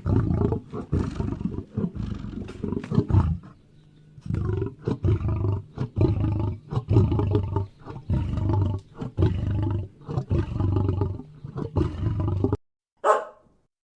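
A big cat roaring and growling in a long series of rough, low calls, with a short break after about three and a half seconds. The calls stop shortly before the end, followed by one brief higher sound.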